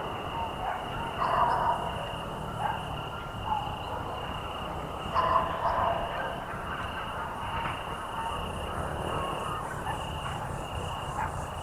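Evening countryside ambience: insects trilling steadily in a high, pulsing chorus over a low background rumble. Two brief louder calls or voices rise above it, about a second and a half in and again about five seconds in.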